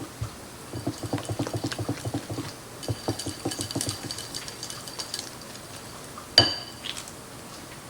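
Homemade ranch dressing being stirred in a bowl: quick, rapid clinks of the utensil against the bowl for a few seconds. About six seconds in comes one sharper, louder clink with a short ring.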